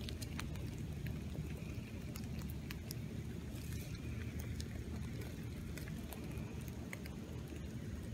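Rain falling, a steady low rush with scattered drops ticking sharply close by. A faint high buzz rises and fades about four seconds in.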